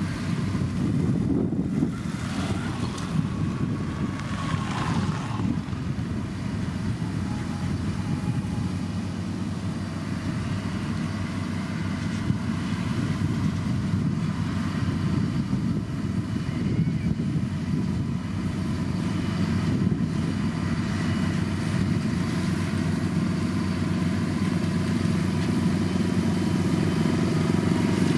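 Heavy diesel engine of a motor grader running steadily under load while it pushes gravel, a continuous low drone that grows slightly louder near the end.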